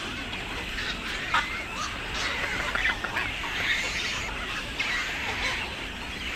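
Birds calling: many short, overlapping calls over a steady background, one sharper call about a second and a half in.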